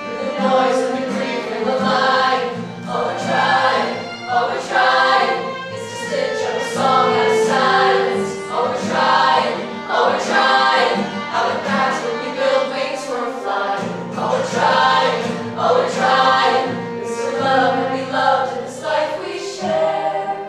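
A group of voices singing together in harmony, a choral passage that stops right at the end.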